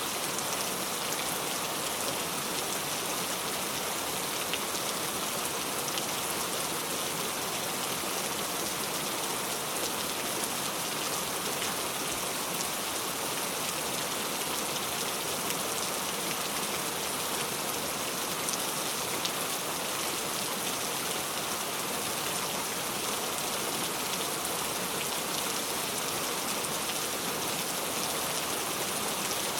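Steady rainfall: a dense, even hiss of rain pattering on a surface, with fine scattered drop ticks and no thunder.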